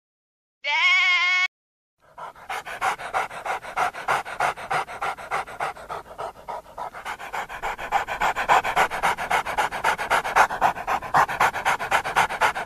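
A dog panting rapidly and evenly, about four to five breaths a second. It is preceded by a brief pitched animal call about a second in.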